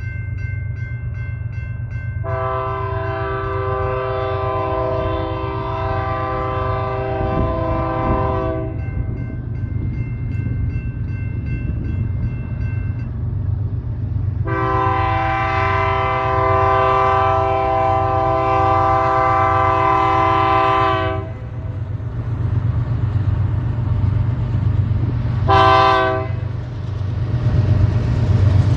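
Air horn of a GE Dash 9 diesel locomotive sounding two long blasts and a short one, the start of the grade-crossing signal, over the steady rumble of the approaching train.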